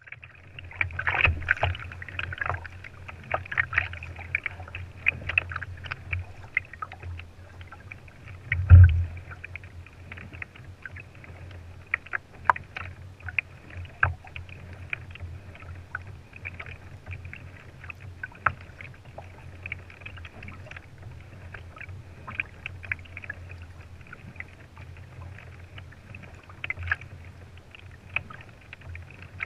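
Water sounds from a kayak on the sea: irregular splashes and small knocks against the hull over a steady low rumble, with one loud thump about nine seconds in.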